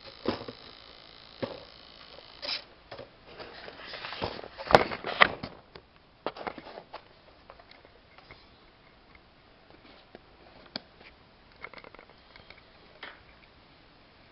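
Irregular clicks and knocks, like objects being handled, loudest in a cluster about four to five seconds in, then sparser and fainter.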